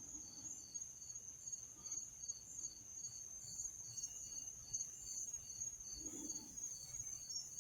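Insects chirping: a steady high trill with a pulsed chirp repeating about three times a second. A soft low sound comes about six seconds in.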